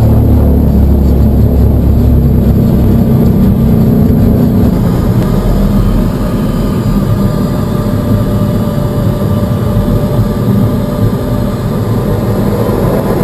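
The Colomban CriCri Jet's small jet engines running with a steady high whine. A heavy low rumble fills the first four seconds or so, then eases off.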